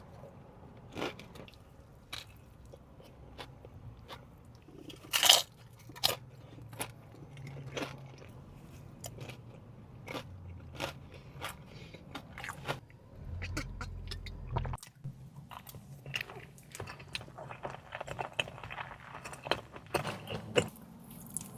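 A person eating seafood close to the microphone: chewing with crunchy bites and many short sharp clicks, the loudest about five seconds in.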